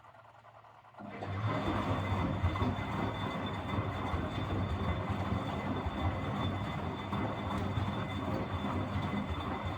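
Miele Deluxe-Electronic W761 washing machine's drum motor starting about a second in and turning the drum steadily in the wash cycle, a loud running noise with a low hum and a faint high whine. The owner says its motor bearings are audibly noisy.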